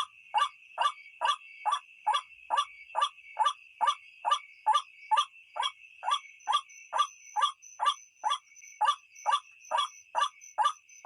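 White-breasted waterhen (ruak-ruak) calling: a short harsh note repeated evenly, about twice a second, over a steady high ringing sound. This is a recorded lure call used to attract the birds at night.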